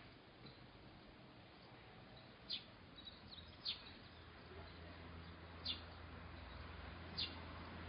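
A bird giving four short, sharp chirps spaced a second or two apart, over faint steady outdoor background noise; a low hum grows stronger in the second half.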